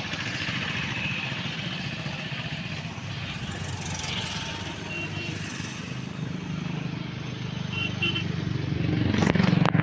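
Engine of a road vehicle running steadily while riding along, with road and wind noise. A few short high beeps come through midway, and the sound swells into a louder rush near the end.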